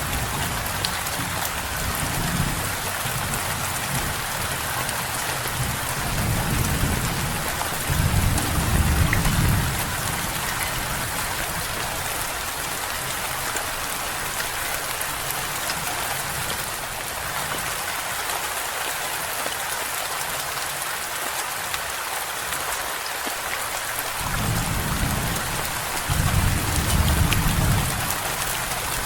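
Steady rain falling, with two low rolls of thunder: one swelling from about six to ten seconds in, another near the end.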